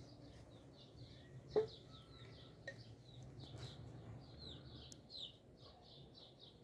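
Small birds chirping continuously in quick, short repeated notes. One brief sharp sound cuts through about a second and a half in.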